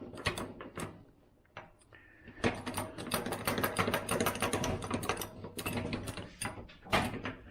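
A fast run of ratcheting clicks from hand tool work, many a second, starting about two and a half seconds in and stopping near six and a half seconds, with a few single clicks before and after.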